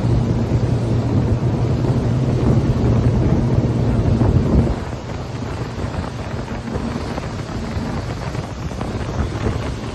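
Boat engine running steadily under wind buffeting the microphone and water rush. About halfway through the engine hum cuts off abruptly, leaving quieter wind and water noise.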